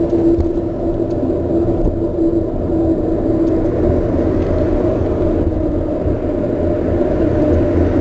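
Trek Marlin 7 mountain bike rolling along, its tyres rumbling under heavy wind noise on an action camera's microphone. A faint steady hum in the rolling noise moves to a higher pitch about halfway through.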